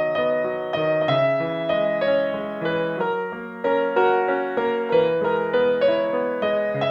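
Soft background piano music, a gentle melody of notes struck and left to ring over sustained chords.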